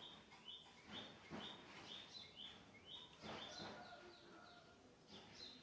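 A small bird chirping faintly, short high chirps two or three times a second.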